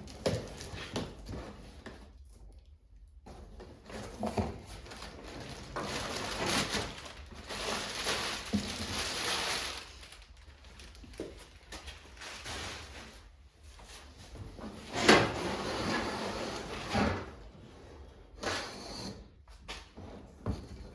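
A cardboard parts box being opened and its contents handled: irregular rustling and scraping of cardboard and plastic packaging, with scattered knocks and one sharper knock about fifteen seconds in.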